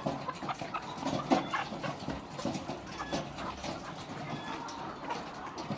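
A flock of laying hens clucking and calling, many short overlapping calls with scattered clicks.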